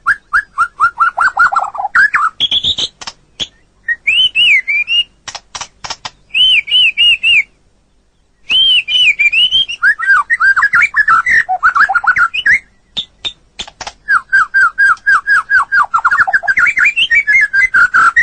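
White-rumped shama (murai batu) singing a varied song: phrases of rapidly repeated whistled notes, some rising and falling, mixed with sharp dry clicks. There is a short pause about eight seconds in.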